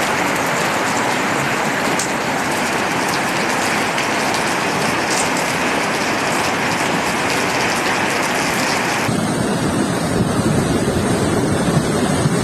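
Heavy rain coming down in a steady hiss. About nine seconds in it cuts to a duller, lower rushing noise.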